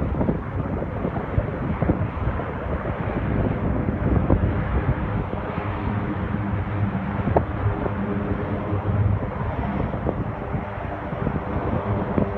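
Four turboprop engines of a C-130 Hercules running, a steady drone with a humming propeller tone, with wind buffeting the microphone.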